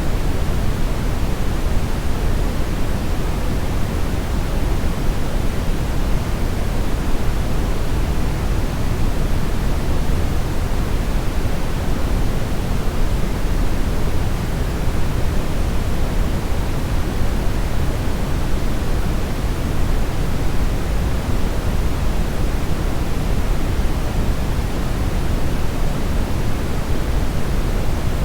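Steady brown noise: an even, unbroken rush, strongest in the low end and fading toward the highs.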